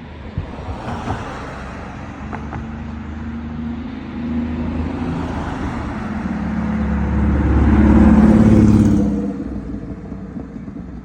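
1990 Porsche 964's air-cooled 3.6-litre flat-six approaching and driving past, growing louder to a peak about eight seconds in, then fading as the car moves away.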